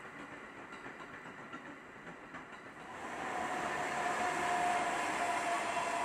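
An electric locomotive hauling freight wagons passes along the tracks. Its running noise swells about three seconds in, with a steady high whine over the rumble of the wheels.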